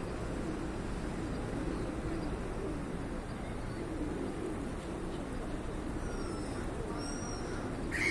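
Birds calling over a steady background hubbub, with a few short high calls late on and a louder call at the very end.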